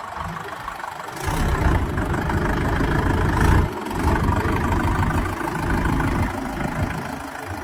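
Mahindra tractor's diesel engine running, getting much louder about a second in and staying loud, with a brief dip partway through.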